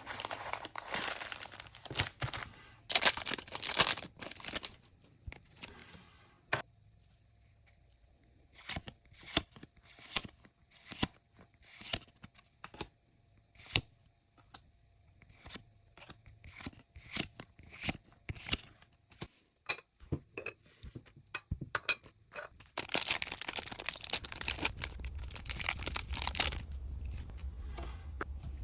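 Foil Pokémon trading card pack torn open with crinkling wrapper, then a long run of sharp card flicks and clicks as the cards are handled one by one, and more crinkling and rustling near the end.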